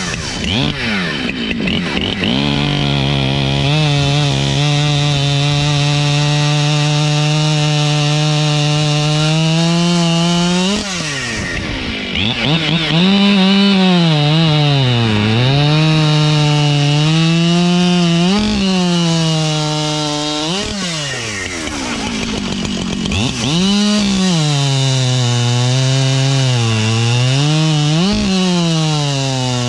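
Two-stroke chainsaw cutting wood at full throttle. The engine note dips repeatedly as the chain loads up in the cut and climbs back as it clears, and twice it drops back to a lower speed between cuts.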